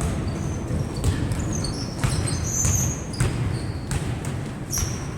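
A ball struck or bounced several times, sharp thumps about a second apart over a steady low rumble.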